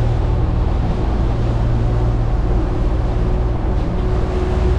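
Sport-fishing boat's engine running steadily at trolling speed, a low even hum under wind and water noise.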